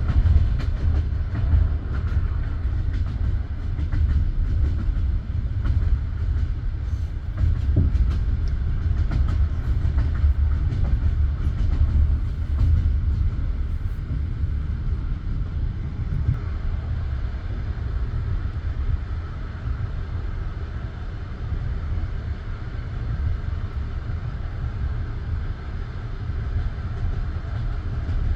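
Passenger railway carriage rolling along the track, heard from inside: a steady low rumble with the clatter of the wheels over the rails.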